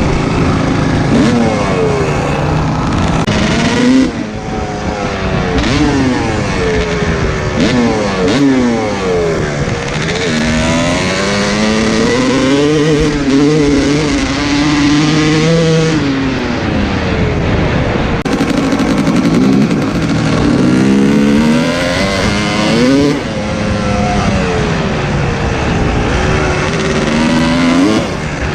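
Dirt bike engine revving up and down through the gears, its pitch repeatedly climbing and dropping, held steady for a few seconds around the middle.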